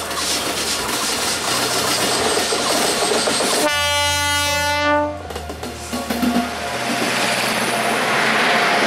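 WAG-9H electric locomotive hauling a freight train and passing close by, its wheels running loudly on the rails. About midway it sounds one steady horn blast lasting about a second and a half.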